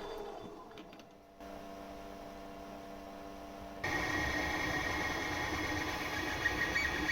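Workshop machine motors humming: one fades away in the first second, then two steady, even hums follow, each starting abruptly, the second louder and higher-pitched.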